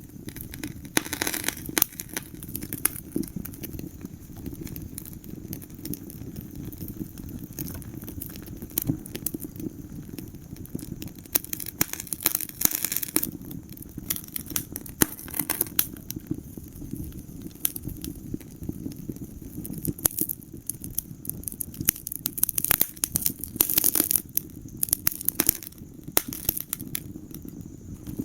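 Wood fire burning in a fireplace, crackling and popping with irregular sharp snaps over a steady low rumble of flames.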